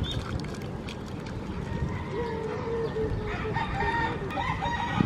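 A rooster crowing once, starting about two seconds in and lasting about three seconds, the call stepping up in pitch partway through.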